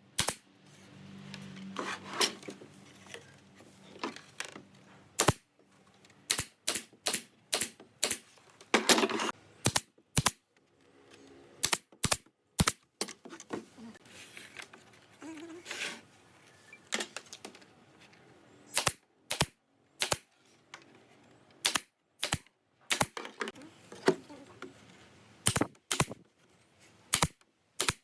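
Woodworking: repeated sharp knocks of a tool striking wood, irregularly spaced and sometimes coming in quick runs of about three a second.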